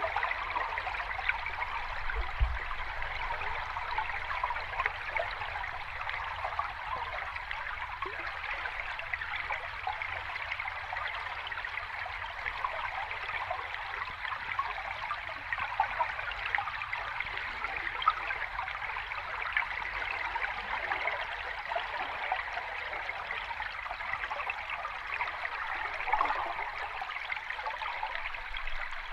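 Sea water washing and fizzing in a steady, even wash, with no big wave crashes.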